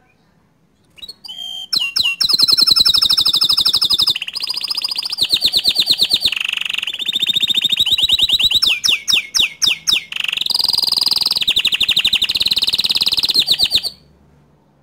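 Bottle-green domestic canary singing a long, loud song of fast rolling trills, switching between higher and lower phrases. It starts about a second in and stops near the end.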